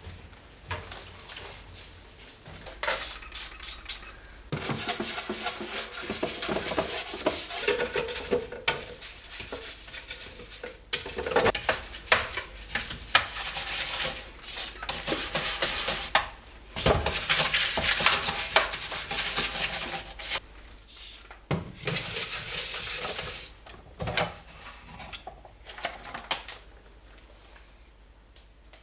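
A hard surface being scrubbed by hand during cleaning: rough rubbing in long stretches with short pauses and a few sharp knocks, starting a few seconds in and dying away near the end.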